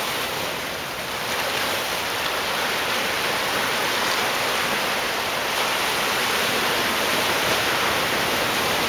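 Ocean water washing against shoreline rocks: a steady, even rush of surf.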